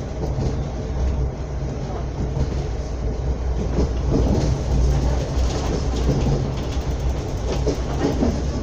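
Srbija Voz passenger train running at speed, heard from inside the carriage: a steady low rumble of wheels on the rails, with faint clicks over the rail joints in the second half.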